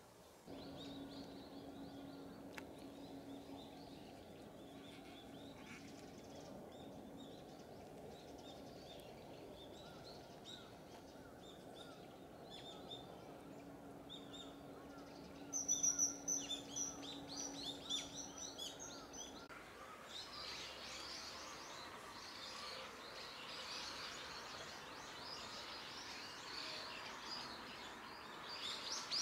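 Outdoor ambience with small birds chirping. A steady low hum lies under the first two-thirds. A run of loud, high calls comes about sixteen seconds in, and after an abrupt change in background near twenty seconds the chirping grows denser.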